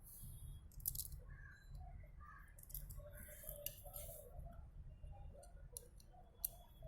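Faint clicks, taps and scrapes of small parts being handled as the microwave oven's fan motor is greased and fitted back together.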